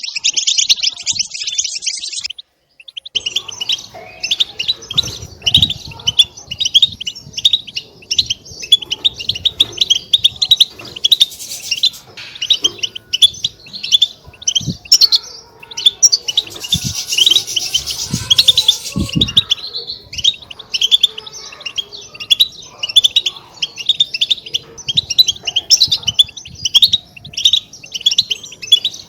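European goldfinches twittering: a dense run of quick chirping calls that breaks off briefly about two and a half seconds in, then carries on, busiest about two-thirds of the way through. A few soft low thumps sound under the calls.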